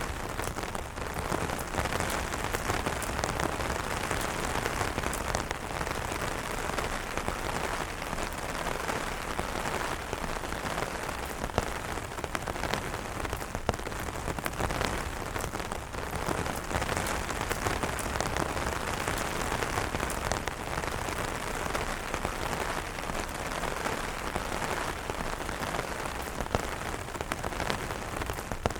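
Steady rain falling on umbrellas: a dense, even hiss full of sharp individual drop hits, with an occasional louder single drop.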